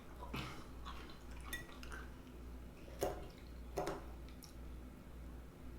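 Eating sounds: a utensil clicking and clinking against a dish several times, with wet mouth sounds; the two loudest clinks come about three and four seconds in.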